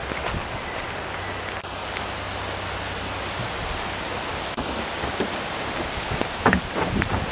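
Steady rain falling on leafy woodland, a continuous even hiss, with a few sharp taps near the end.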